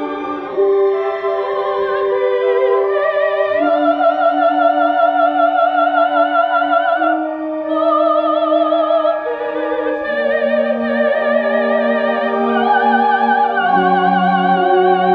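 Operatic soprano singing long, held notes with a wide vibrato over a sustained orchestral accompaniment, the melody moving to a new pitch every second or two.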